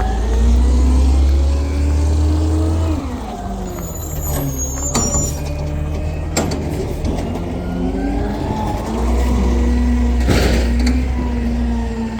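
Garbage truck engine revving up, easing off, then revving up again and holding high, with a few sharp clacks in the middle and a short air hiss about ten seconds in.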